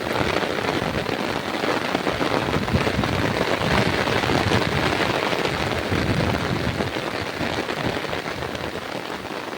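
Heavy monsoon rain pouring down: a steady dense patter of drops, easing slightly near the end.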